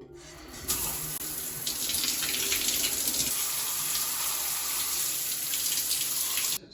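Steady rush of running water, starting under a second in and cutting off abruptly near the end.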